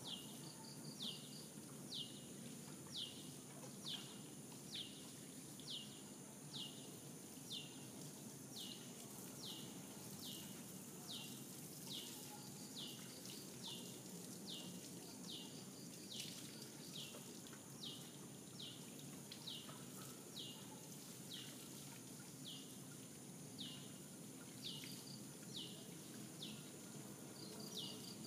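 A bird calling over and over, a short high falling note repeated about once a second, over a steady high insect drone.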